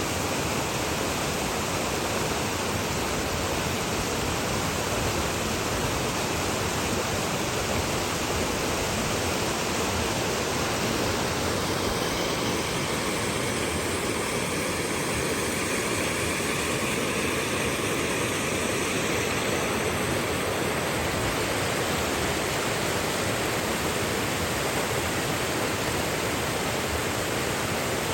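Flowing water rushing steadily, a continuous even hiss with no breaks; its tone shifts slightly for a while in the middle.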